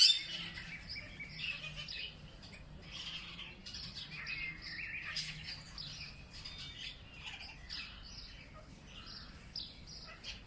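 Several small birds chirping and calling over one another in a continuous chorus of short, high notes. A sharp click sounds at the very start.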